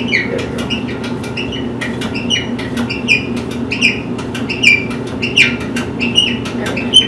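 A small bird chirping over and over, short high chirps that fall in pitch, two or three a second, over a steady low hum.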